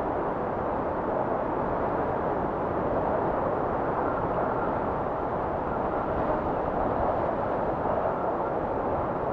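Blizzard wind blowing steadily, a dense even rush with a faint rising whistle near the end.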